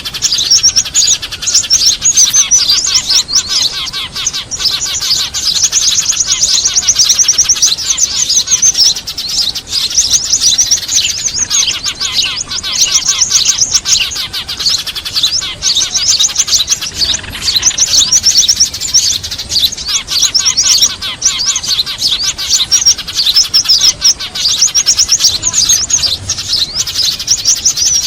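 Dense, unbroken chattering of many small birds, Eurasian tree sparrows among them: rapid high chirps overlapping throughout. It is a lure call of the kind played to draw small birds in for trapping.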